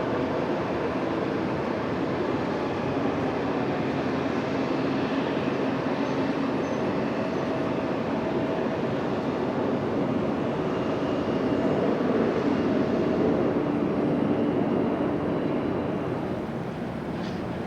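Jet airliner engines running with a steady roar and slowly drifting hum, growing a little louder about eleven seconds in and easing off near the end.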